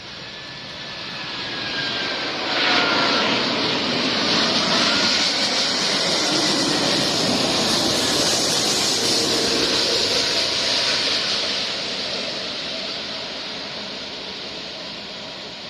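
Airbus A380's four turbofan engines as the airliner passes on its landing approach: a jet roar that builds sharply a couple of seconds in, holds for several seconds, then slowly fades, with falling whine tones as it goes by.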